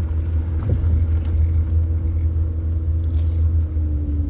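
Low, steady rumble of a Mercury Montego heard from inside the cabin while it crawls or idles on a rough dirt trail, with a steady engine hum. A couple of light knocks come about a second in.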